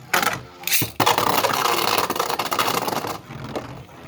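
Two spinning Beyblade tops launched into a plastic stadium, clashing and grinding against each other with a dense, rapid rattling that lasts about two seconds and then eases off.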